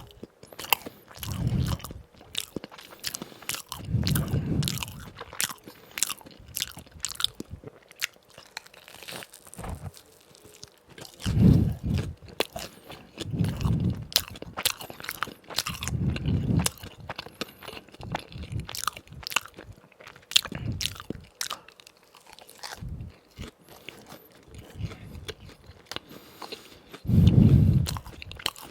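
Close-miked biting, crunching and chewing of crispy fried donuts, with many sharp crunches throughout and a handful of deeper, muffled chewing thuds spaced irregularly.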